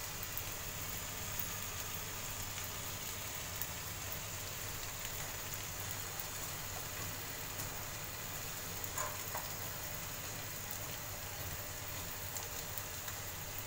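Ivy gourd and potato vegetable sizzling softly in a pan on the gas flame: a steady, fine crackling hiss.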